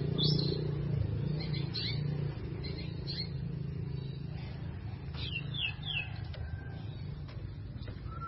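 White-rumped shama singing in short high chirps and phrases, with a quick run of three or four falling notes about five seconds in. A steady low hum runs underneath.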